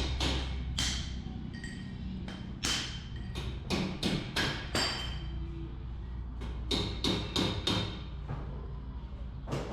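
Hammer striking metal in short runs of three or four blows with pauses between, each blow ringing briefly. This is typical of seating parts during a rear-axle ring-and-pinion gear install.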